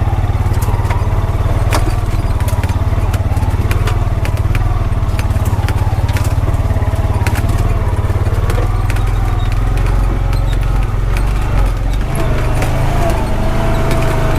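Honda Pioneer 520 side-by-side's single-cylinder engine running steadily, with scattered clicks and rattles throughout.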